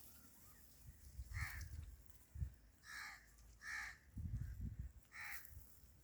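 A bird giving short, harsh caw-like calls, four times, with low rumbles in between.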